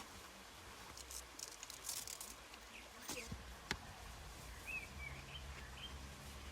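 Faint outdoor ambience with a couple of sharp clicks midway and a few short bird chirps in the second half.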